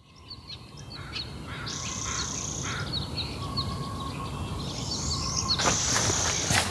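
Birds chirping with repeated short, high calls, over a low outdoor rumble. A broader rustling noise comes in near the end.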